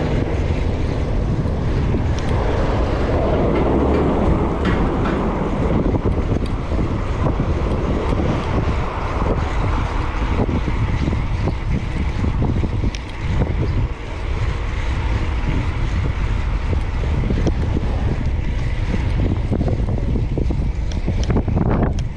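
Wind rumbling steadily on the microphone while cycling through city traffic, with the sound of passing vehicles underneath.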